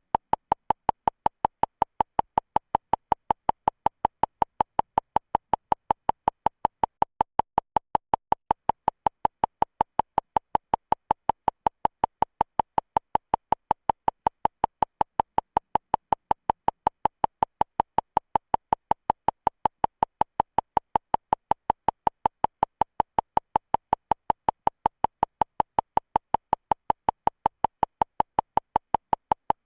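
Electronic beep pitched around 1 kHz, pulsing on and off evenly at about four or five beeps a second without a break.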